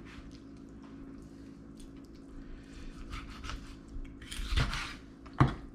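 Raw chicken being cut up with a knife on a cutting board: soft slicing and handling noises, a longer scraping rustle about four and a half seconds in, then a sharp knock near the end, over a steady low hum.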